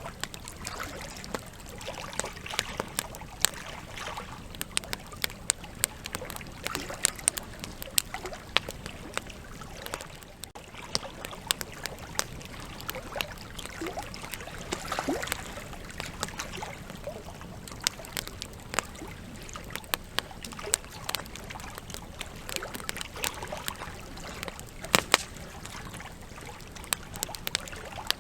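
Wood campfire burning, with irregular sharp crackles and pops from the logs over a steady soft hiss of flame.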